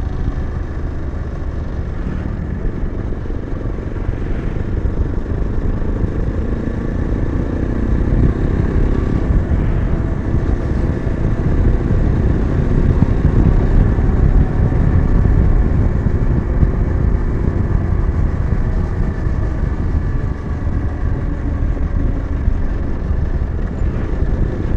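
Yezdi Adventure motorcycle's 334 cc single-cylinder engine running under way, over a dense low rumble. The sound grows louder about eight seconds in and stays up for several seconds before easing a little.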